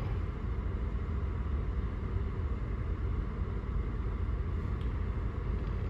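Volkswagen Jetta engine idling at about 760 rpm: a steady, even rumble.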